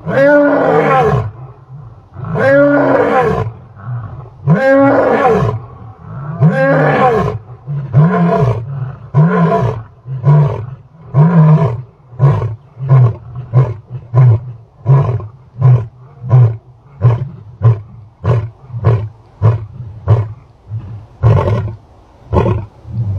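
A large animal roaring: four long roars, each rising and then falling in pitch, followed by a long run of shorter grunts that come quicker and fade toward the end.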